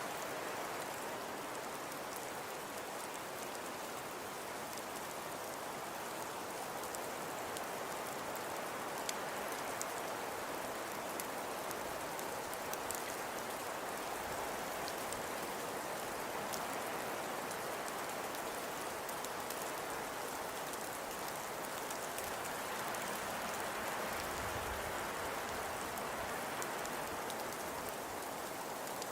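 Steady, even hiss of falling precipitation, with faint scattered ticks of pellets or drops landing, as in a snowfall ambience recording that sounds much like light rain on a surface.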